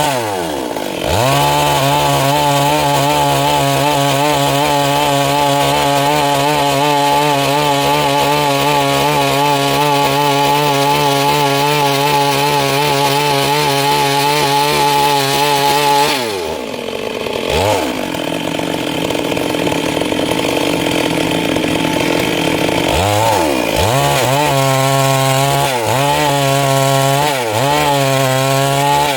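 Stihl MS 382 two-stroke chainsaw running at high revs for about fifteen seconds, as in a long cut through wood. It drops back briefly past the middle, revs up again, and near the end is throttled down and up several times in quick succession.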